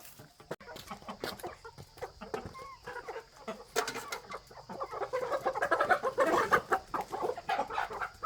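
Several chickens clucking, growing louder and busier from about four seconds in.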